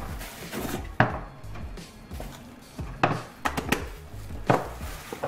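Background music with a handful of sharp knocks and clicks, about one every second or so, as slime containers are handled and set down.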